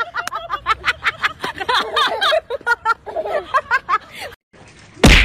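People's voices chattering rapidly. Near the end the sound drops out for a moment, then a sudden loud burst of noise follows.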